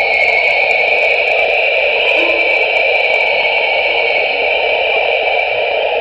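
Electronic sonification of the James Webb Space Telescope's Southern Ring Nebula image, in which the image's colours are turned into pitches. It sounds like a steady, static-like hissing wash with a few faint short low notes.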